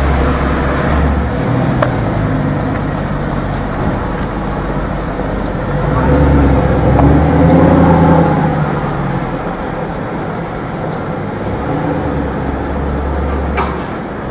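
Mercedes SLS AMG's 6.2-litre V8 running at low, steady revs, its rumble swelling louder about halfway through. A short sharp click comes near the end.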